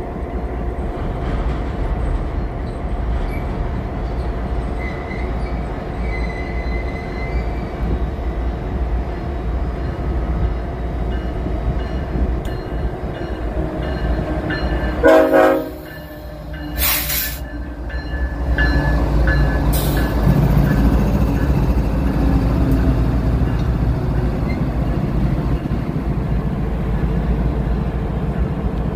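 BNSF diesel freight locomotives running, a steady low rumble as the train comes in, with a short horn blast about halfway through. The engine sound grows louder and fuller for the last third as the lead locomotive draws alongside and passes.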